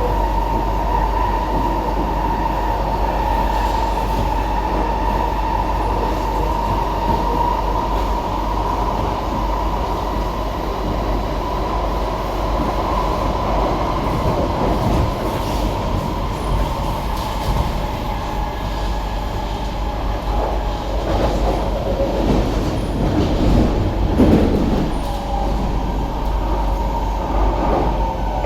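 SMRT C151B metro train running between stations, heard from inside the car: steady rumble and rail noise under a continuous motor whine. In the last several seconds the motor tones glide in pitch as the train nears Gul Circle station.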